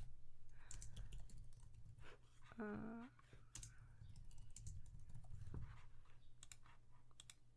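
Typing on a computer keyboard: irregular, scattered keystrokes and clicks, with a brief hummed voice sound about three seconds in.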